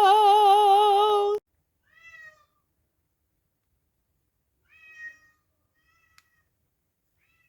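A loud held sung note with vibrato cuts off suddenly about a second and a half in. Then a domestic cat meows faintly four times, short meows a few seconds apart, with a small click at the third.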